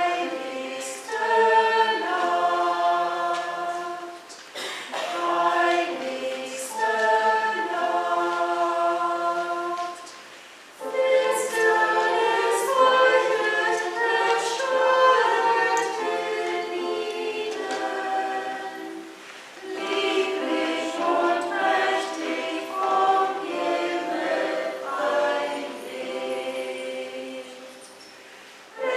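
Church choir singing a sacred piece in sustained chords, phrase by phrase, with brief pauses between phrases.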